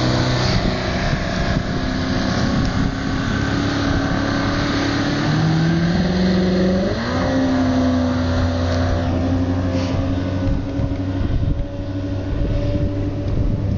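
Evinrude outboard motor on a racing boat running at speed, rebuilt. Its revs climb a few seconds in, then hold steady and high, with a rush of wind and water throughout.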